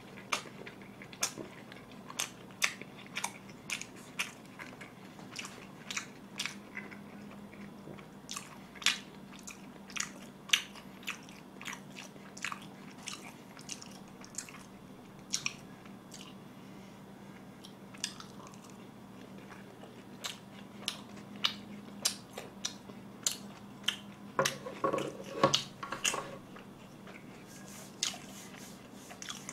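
Close-miked chewing of sauced fried chicken: scattered crisp crunches and mouth clicks a second or so apart, thinning out for a while in the middle and bunching together about three-quarters of the way through.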